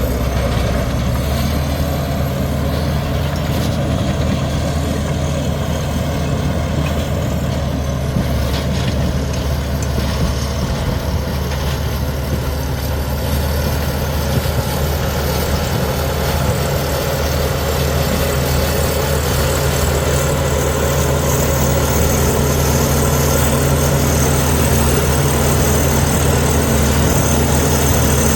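Komatsu D61EX bulldozer's diesel engine running steadily at a low, even pitch under work, growing slightly louder about two-thirds of the way through.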